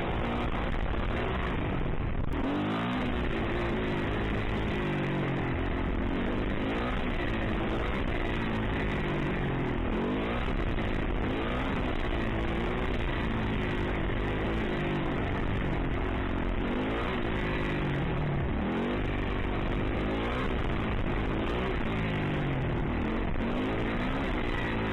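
Yamaha YZ450F dirt bike's single-cylinder four-stroke engine revving hard and easing off over and over, its pitch climbing and dropping every second or two as the throttle is worked for wheelies.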